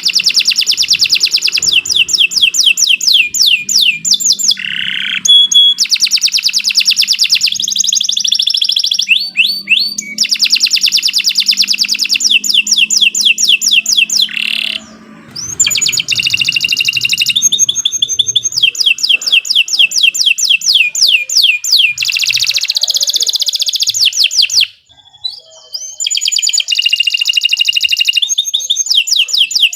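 Domestic canary singing long, loud song phrases of rapid repeated trills and whistled notes, with brief pauses about halfway through and again near the end.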